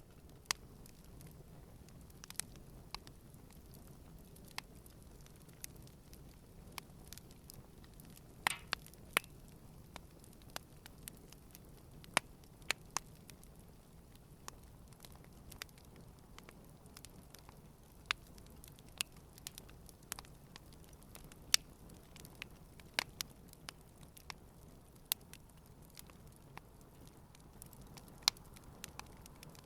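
Wood campfire burning: a soft steady hiss with irregular sharp crackles and pops, a few louder snaps scattered through.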